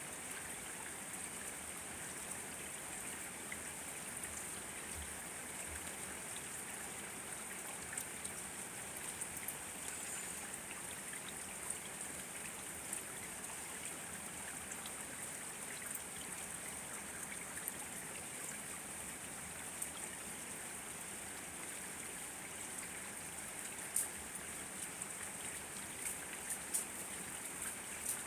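Steady rain falling: an even hiss with scattered sharper drop ticks, a few louder ones near the end.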